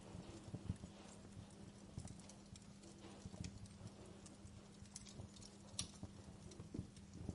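Wood fire crackling in a fireplace: faint, irregular snaps and pops over a soft low rumble, with a sharper snap just under a second in and another near six seconds. A steady low hum runs underneath.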